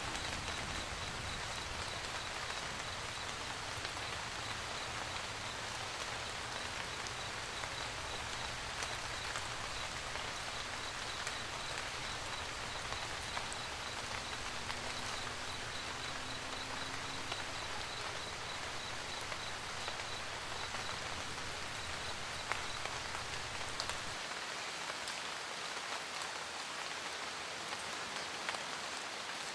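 Steady rain pattering on a roof, with a low rumble underneath that cuts off suddenly near the end and a faint, rapid, evenly spaced high ticking through most of it.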